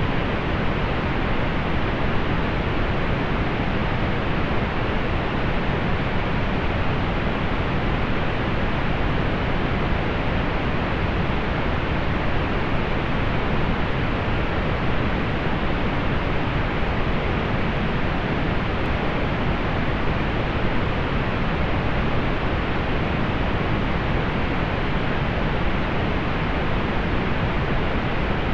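Steady pink noise: an even, unchanging hiss weighted toward the low end, with the highs rolled off.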